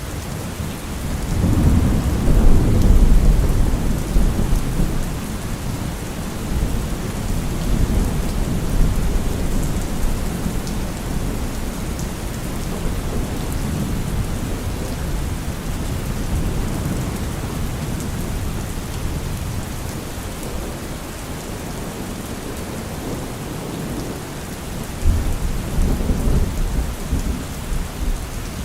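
Steady rain with rolling thunder. A long low rumble swells about a second in and rolls on for several seconds, and a second rumble comes near the end.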